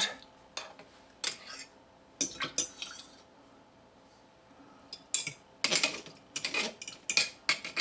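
A utensil scraping and clinking against a bowl and glass jars as sauerkraut is scooped out and packed in. The irregular scrapes and knocks pause for a second or two in the middle, then come thicker toward the end.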